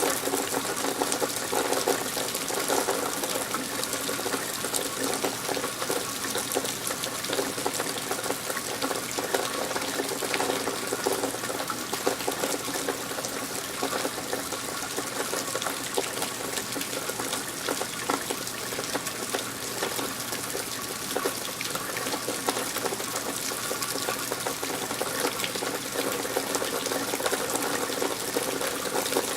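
Steady rain at night, with water pouring and splashing as a dense, even patter of drops.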